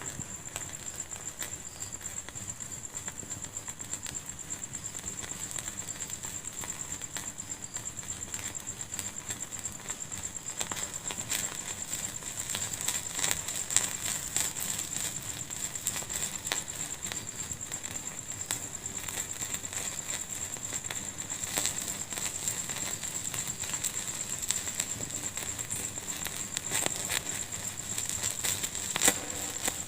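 Fire in a fireplace crackling, with many short sharp pops over a steady high hiss. The pops grow busier about ten seconds in, and a couple stand out louder.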